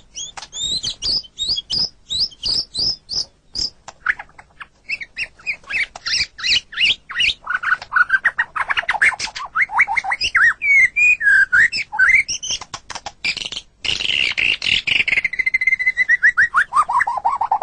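White-rumped shama (murai batu) singing a long, varied song: quick runs of sharp chirps and clicks, whistled notes sliding up and down, a brief break, then a fast trill that drops in pitch near the end.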